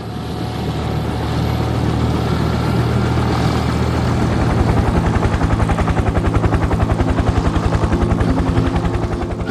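Helicopter in flight: a steady engine drone with a fast, even beat of the rotor blades, fading up over the first second.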